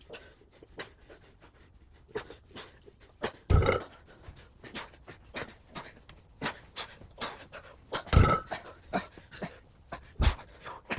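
A person breathing hard in quick short breaths, about two to three a second, during fast exercise reps. There are loud forceful exhales about three and a half, eight and ten seconds in.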